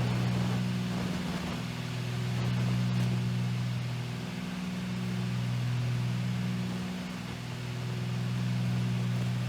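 The twin 260-horsepower Continental IO-470 piston engines and propellers of a Cessna 310Q, heard from inside the cabin as a steady, deep drone that swells and fades slowly every few seconds.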